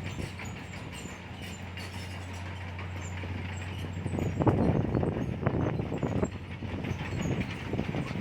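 Komatsu crawler bulldozer working, its diesel engine running steadily under a clatter of steel tracks clanking and rattling. The clanking gets busier and louder about halfway through.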